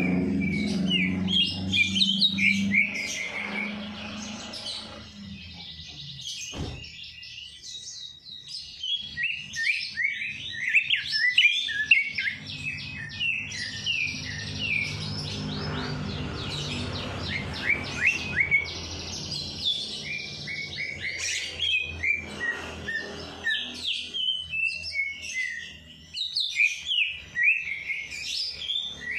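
Several small songbirds chirping and twittering in rapid, high, overlapping notes and short trills, over a low steady hum that is strongest at the start.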